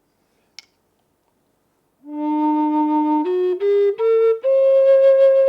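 Native American style flute in the key of D sharp, starting about two seconds in: one low note held for about a second, then three short notes stepping upward to a long held higher note.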